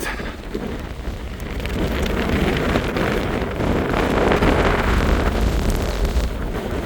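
Strong gusting wind hitting the microphone: a low buffeting with a rushing noise over it, getting louder about two seconds in.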